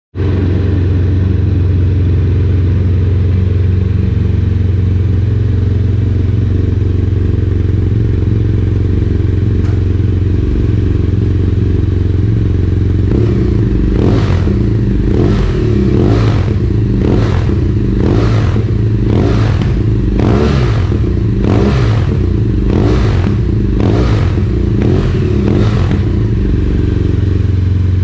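BMW F800R parallel-twin engine running through a Yoshimura aftermarket exhaust: it idles steadily, then is blipped about a dozen times in quick succession in the second half, each short rev rising and falling back, before settling back to idle near the end.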